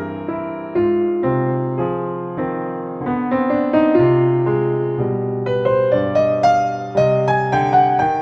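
Slow, gentle solo piano music, single notes and chords struck one after another and left to ring.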